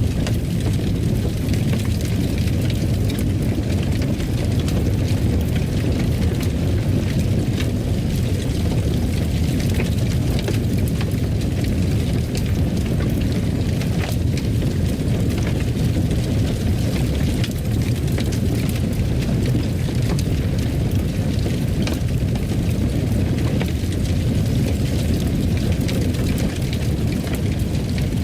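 Fireplace fire burning: a steady low rumble with scattered small crackles.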